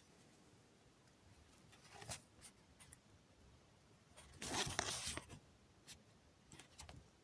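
Faint rustling of a paper document being handled, with a few small clicks; the loudest rustle comes about four seconds in and lasts about a second.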